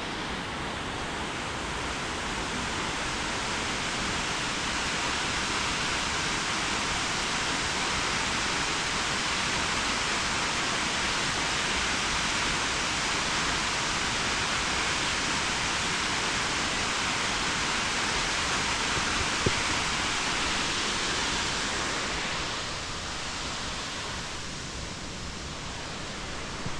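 Steady rushing of Akiu Great Falls, a large waterfall, easing a little about 22 seconds in.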